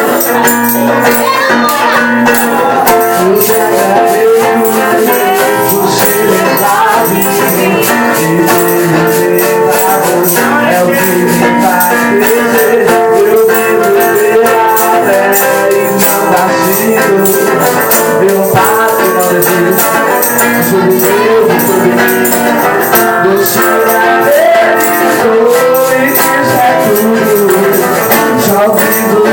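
Congregational worship music: singing over instruments, with a steady shaking rhythm from tambourines or shakers.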